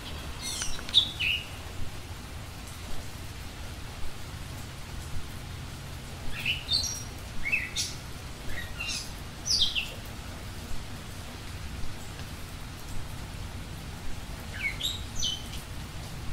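A bird chirping in steady rain: short, high, sweeping chirps come in three bouts (at the start, through the middle, and near the end) over an even hiss of rain.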